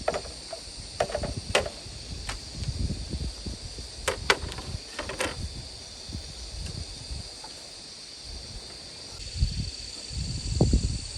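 Steady high-pitched insect drone, with a handful of sharp clicks or knocks in the first half and a few low thumps near the end.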